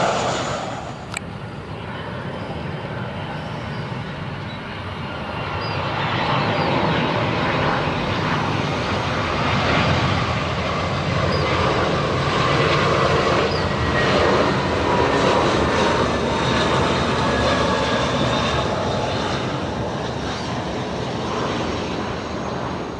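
Jet airliner engines running loudly, with a faint steady whine over the noise; the sound swells in the middle and then slowly fades away.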